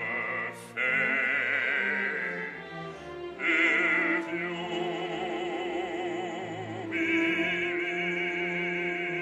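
Operatic singing: a trained voice holds long notes with wide vibrato, over music. The phrases break off briefly about half a second in and again about three seconds in.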